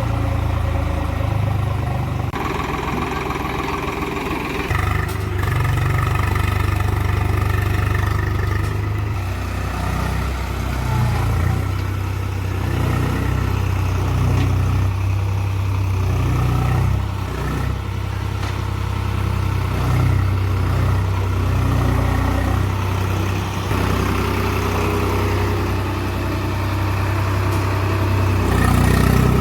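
Tractor engine running steadily, its low note shifting slightly now and then.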